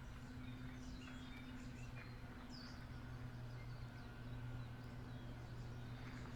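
A few faint, scattered bird chirps over a steady low hum.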